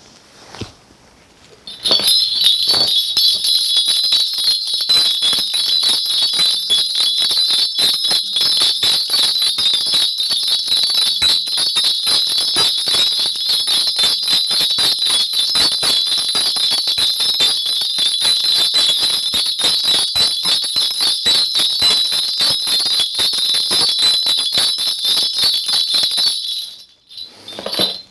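A Korean shaman's cluster of ritual bells shaken continuously, a dense bright jingling that starts about two seconds in and cuts off suddenly near the end. The bells are rung to call the spirits before a fortune reading.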